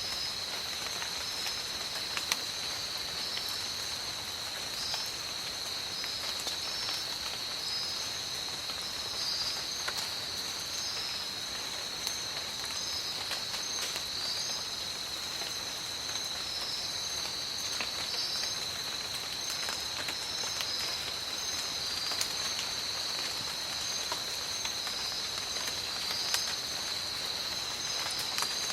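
Steady rain falling in a tropical forest, with scattered sharper drop taps among the even hiss. A steady high-pitched drone runs under it, with short high chirps coming and going above.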